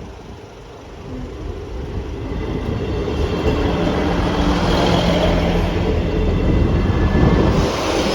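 Train approaching and running through the level crossing, growing steadily louder from about a second in to its loudest near the end.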